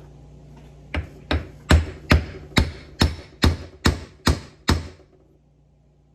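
Ten sharp hammer blows on metal, about two and a half a second, each with a short ring, during the teardown of a 1978 Ford steering box.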